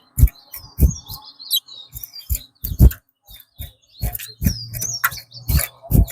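Caged towa-towa seed finches chirping in short high notes that slide in pitch, with many sharp clicks and knocks in between.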